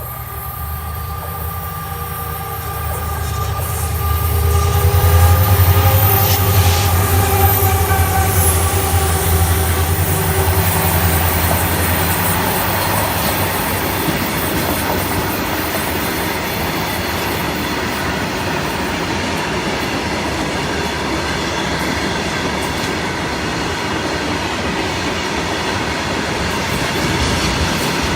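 An Indian Railways express train passing at speed. A low locomotive drone swells and is loudest about five seconds in. After that the coaches rush past as a steady, even rumble with some wheel clatter.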